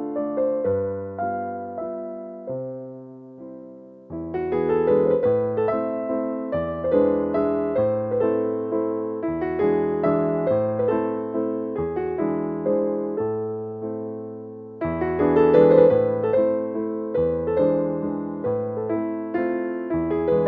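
Background piano music: a gentle waltz played on piano, with a brief fade about four seconds in and a swell near the end.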